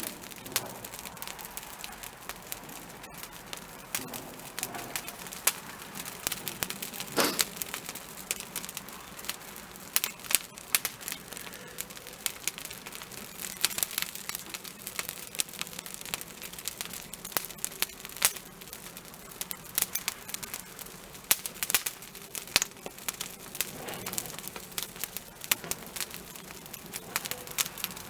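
Wood fire crackling, with many sharp pops coming at irregular intervals.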